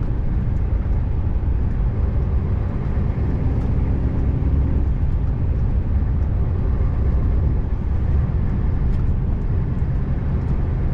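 Scania R590 truck's V8 diesel engine running steadily while driving, a constant low rumble mixed with road noise.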